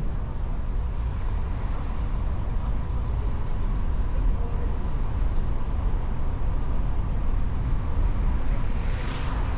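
Steady low rumble of wind on the microphone and road noise from a motorcycle on the move, with a hiss that swells near the end.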